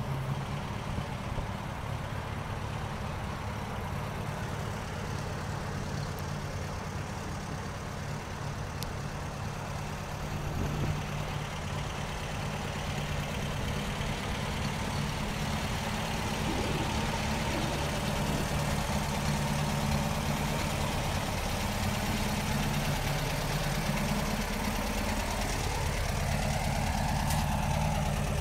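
Air-cooled Volkswagen Beetle flat-four engine idling steadily, a little louder from about halfway through. Near the end a rising whine climbs in pitch over a few seconds.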